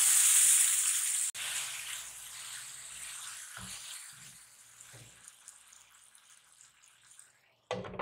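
Marinated chicken strips sizzling in hot oil in a nonstick frying pan: loud at first, then dying down as they are stirred, with a few soft knocks of a silicone spatula against the pan. Near the end, a glass lid is set on the pan with a short knock.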